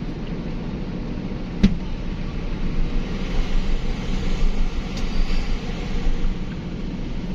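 A steady, low engine rumble, with a single sharp knock about one and a half seconds in.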